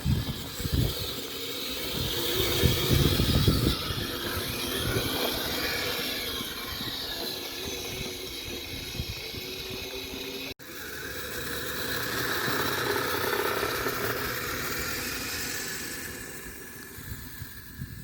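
Kyosho Blizzard radio-controlled snowcat running on its stock electric motor, a steady whine that rises and falls in pitch as it speeds up and slows. Low rumbling in the first few seconds, and a sudden break about ten seconds in before the whine returns.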